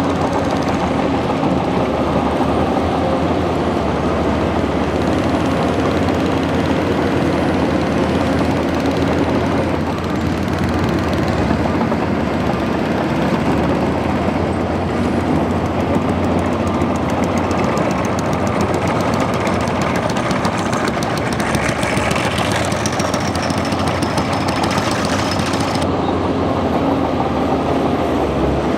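Bulldozer's diesel engine running steadily under load, with a fast rattling clatter through the middle and latter part.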